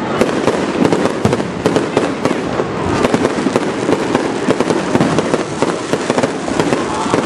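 Aerial fireworks display: a dense, continuous run of bangs and crackling from many shells bursting in quick succession, with no pause.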